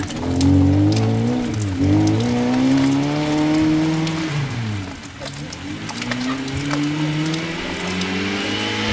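Lada rally car's four-cylinder engine revving hard under load as it drives, its pitch rising and falling with throttle and gear changes: a short dip about two seconds in, a long climb, a fall near the middle, then another climb. The engine is being tried with altered valve lift.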